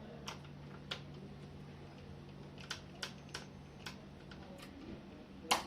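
Scattered small clicks and taps of a screwdriver and screws as the hard-disk screws are taken out of a laptop, with a sharper cluster of clicks near the end. A steady low hum runs underneath.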